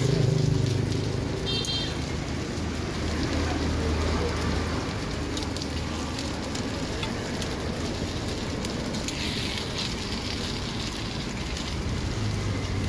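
Takoyaki sizzling in the wells of a takoyaki pan as metal picks turn the balls, with many light clicks of the picks against the pan. A low vehicle rumble comes and goes underneath.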